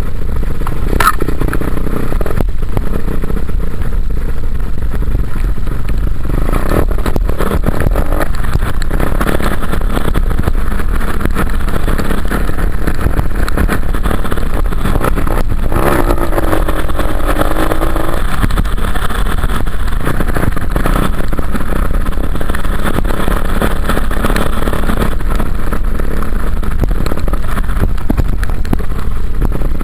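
Dirt bike engine running while riding, its pitch rising and falling with the throttle, over a constant heavy low rumble.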